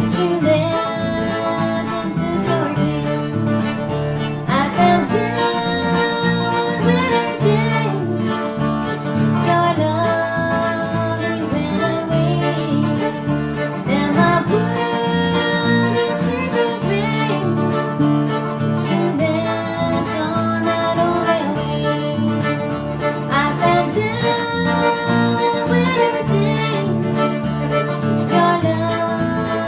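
A bluegrass band playing, with acoustic guitar and fiddle.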